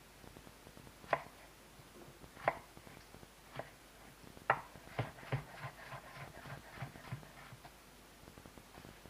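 Kitchen utensils knocking: four separate sharp knocks a second or so apart, then a quicker run of lighter taps and clatter.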